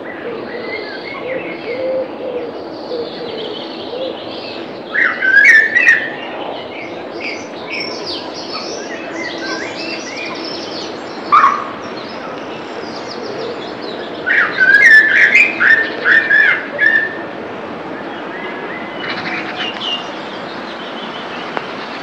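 Birds singing over a steady background of ambience, with bursts of quick chirping song: loud phrases about five seconds in, a short one near eleven seconds, a longer run from about fourteen to seventeen seconds, and fainter ones near the end.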